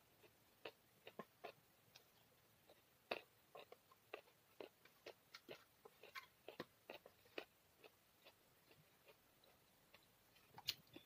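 Close-miked mouth sounds of a person eating rice and side dishes: soft, wet chewing clicks and smacks, irregular, one or two a second. They grow sparser in the last few seconds, with a louder pair of clicks near the end.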